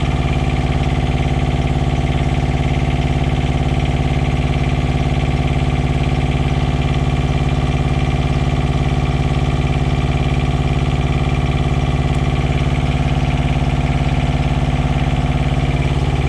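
Semi truck's diesel APU (auxiliary power unit) running steadily at a constant speed, loud and close, just started after its radiator was replaced and still warming up.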